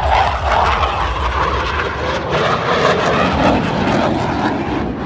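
Jet roar from Blue Angels F/A-18 Super Hornets flying past, a loud rushing noise whose pitch sinks somewhat partway through as the jets go by.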